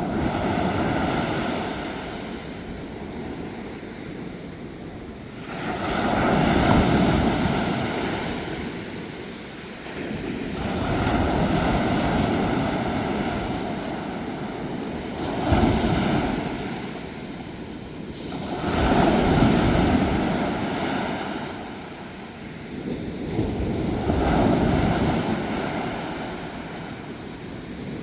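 Sea waves breaking on the shore, each surge of surf swelling and washing back, about every four to five seconds.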